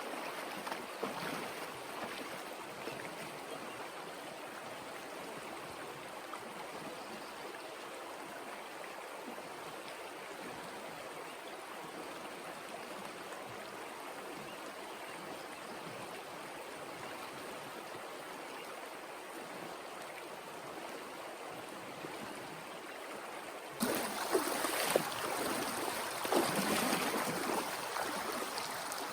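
A swift mountain river rushing steadily. About 24 seconds in, the rush turns suddenly louder and fuller, with uneven surges.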